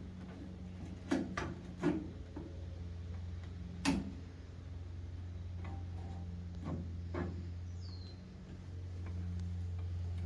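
A few sharp clicks and knocks of parts being handled while a tail light is fitted, the loudest about four seconds in, over a steady low hum.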